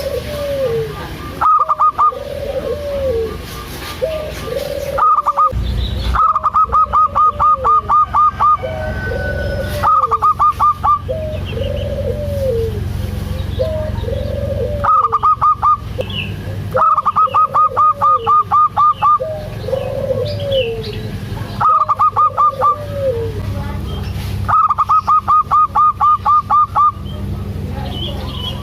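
Zebra dove (perkutut) calling: short arching coos repeat about once a second, and every few seconds a burst of rapid staccato notes breaks in.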